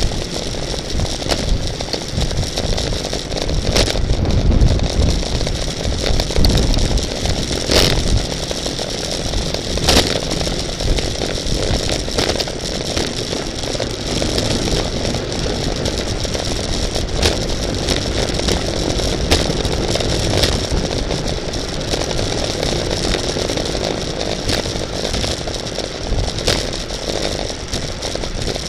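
Wind rushing over the microphone of a bicycle in a road race, with rattling and scattered sharp clicks from the bike as it rolls. The wind gusts heavily a few seconds in.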